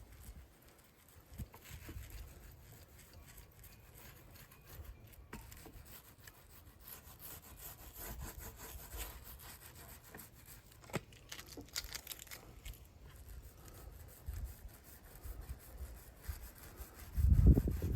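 Faint scratchy rubbing strokes of fibreglass resin being brushed or worked into fibreglass cloth on a drum shell, with a few light clicks. A loud low rumble comes in near the end.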